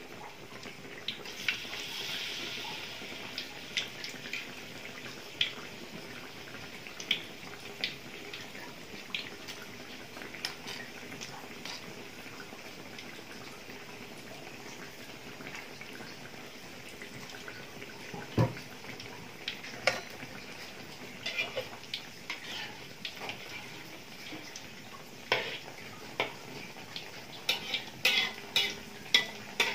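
Battered tempe deep-frying in hot oil in a wok: steady sizzling with crackles and pops, swelling for a couple of seconds near the start. A single knock about halfway through, and a quick run of metal spatula taps and scrapes against the wok near the end.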